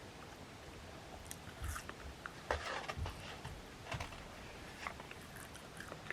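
A person chewing and biting food close to the microphone: scattered soft irregular clicks and short mouth noises, mostly between about one and five seconds in.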